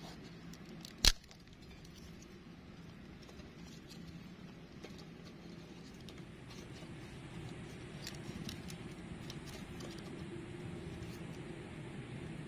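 Steady rain pattering, with scattered ticks of single drops, and one sharp knock about a second in.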